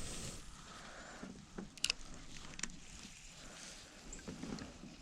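Quiet sounds from a kayak on the water: faint water and handling noise, with a couple of small clicks a little under two seconds in and another shortly after.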